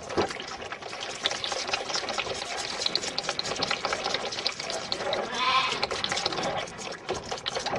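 Calves shuffling about amid steady clattering and knocking, with one short calf call about five and a half seconds in.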